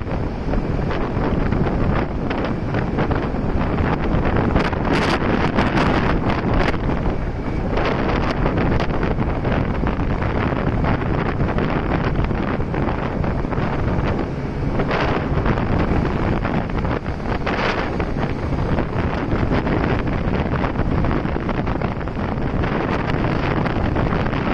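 Wind rushing over the microphone of a camera on a moving motorcycle, a steady loud buffeting with a few brief stronger gusts, with road noise beneath.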